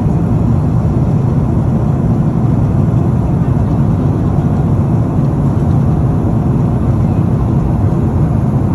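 Steady low rumble of a moving vehicle heard from inside, with no change in pitch or level.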